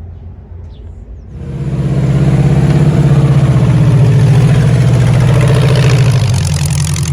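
A low engine rumble, then about a second in a much louder hot-rod engine swells in close by, running at low, steady revs with a fast, lumpy pulse; it eases off somewhat near the end.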